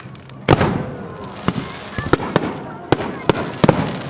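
Aerial fireworks shells bursting in a quick series of sharp booms and cracks, the biggest about half a second in, followed by about six more cracks with crackling between them.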